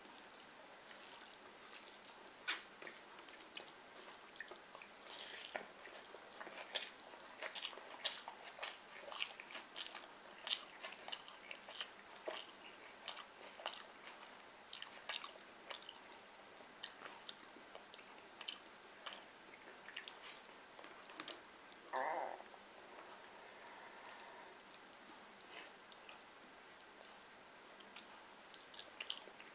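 Close-miked mouth sounds of someone eating fried fish and rice with their fingers: wet chewing with many sharp lip smacks and clicks, busiest in the middle. A brief hummed sound comes about three quarters of the way through.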